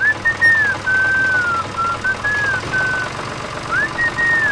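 A whistled tune, one clear note gliding up and down in short phrases, over a steady low mechanical rumble like a small motor running.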